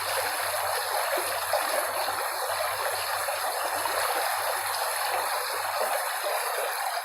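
Running water of a stream, a steady even rushing hiss, with a faint low hum underneath that drops out near the end.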